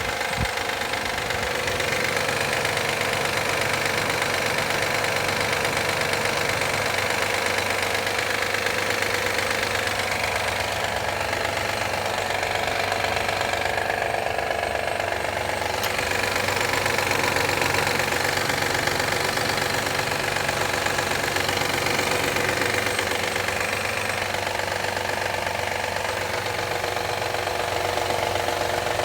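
A 2013 Honda Accord EX-L's 3.5-litre V6 idling during a cold-weather warm-up, with a loud, rapid clapping knock over the steady engine note. The noise comes every time the engine warms up in cold weather.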